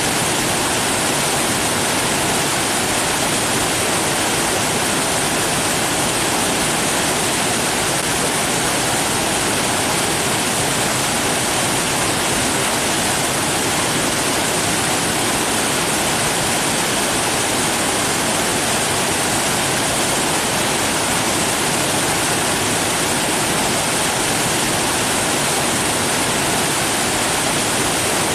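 Rushing water with a steady, unbroken hiss that never changes in level.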